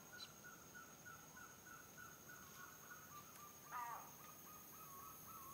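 Faint forest birdsong: one bird gives a long, even series of short whistled notes at a near-steady pitch that slowly sinks. A louder, harsher call cuts in briefly about four seconds in.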